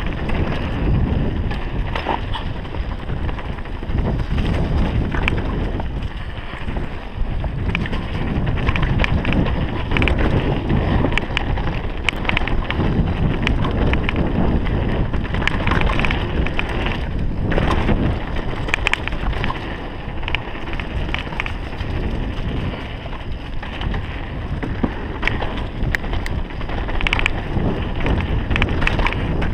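Wind rushing over the microphone of a mountain bike descending a trail, with steady tyre noise and scattered rattling clicks from the bike over bumps.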